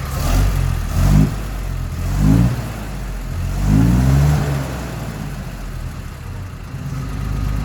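1958 Mack B-21 fire truck's 1091 ci Hall-Scott inline-six engine revved in three short throttle blips, dropping back each time, then running at a steady low idle near the end.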